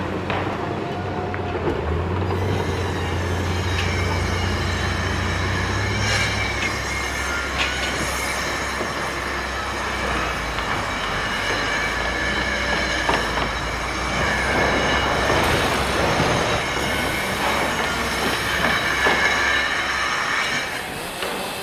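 A heavy machine runs with a steady low rumble under long, drawn-out metallic squeals and scraping, metal grinding on metal. The low rumble drops away near the end.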